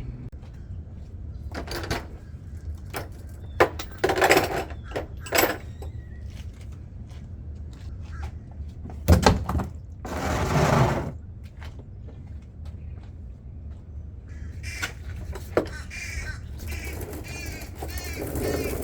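Scattered knocks, scrapes and short rustling sounds of gear being moved and handled, over a steady low hum, with a longer rushing scrape about ten seconds in and some squeaky sounds near the end.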